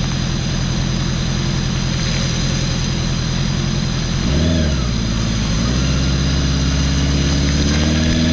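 Motorcycle engine running on the move, its revs rising and dropping about four seconds in and then climbing slowly, over a steady rushing noise.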